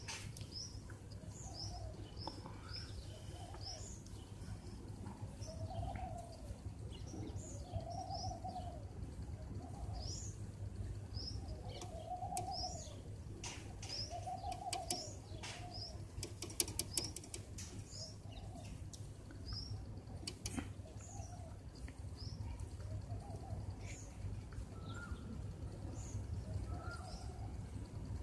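Birds calling: a small bird repeats short high chirps over a lower, rounded call that comes again every second or so, with a steady low hum underneath. A short run of rapid clicks comes about two-thirds of the way through.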